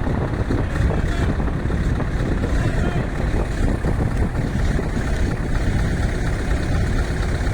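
Scania V8 truck engine running steadily with a deep, even rumble.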